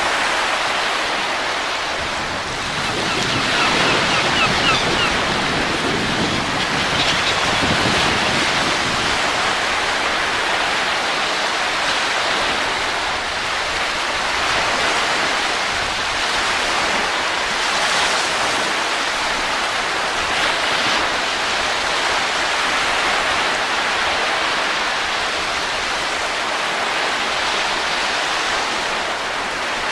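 Steady rushing wind that swells and eases in slow gusts, with a few faint short high chirps about four seconds in.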